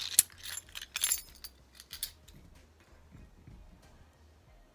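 A keyring with house and room keys, a car key fob and a Tile tracker jangling as it is handled. There are sharp clinks at the start and about a second in, then fainter rattles that die down after about two seconds.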